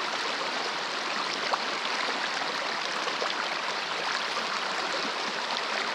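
Steady rush of flowing river water, an even hiss with faint scattered ticks of small splashes.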